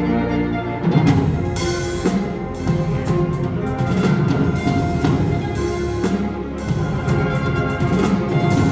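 Live wind ensemble playing. Held chords give way about a second in to a loud full-ensemble passage with repeated percussion strikes, timpani among them.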